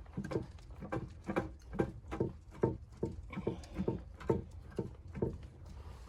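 Footsteps crunching through deep snow at a steady walking pace, a little over two steps a second, stopping about five seconds in.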